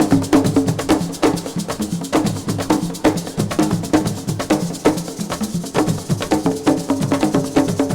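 Assiko band percussion: drums and a wooden or metal clapper-type part playing a fast, dense, driving rhythm.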